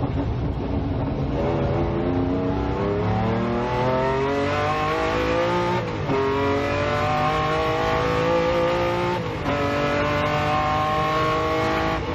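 Lamborghini Diablo's V12 engine accelerating hard, its note climbing steadily in pitch through the gears. The pitch drops at each of two upshifts, about six and nine seconds in, and climbs again after each.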